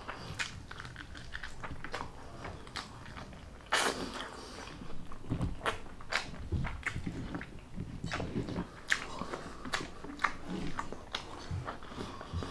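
A person chewing and biting chicken close to the microphone, with many small wet mouth clicks and smacks. There is a louder bite or crunch about four seconds in.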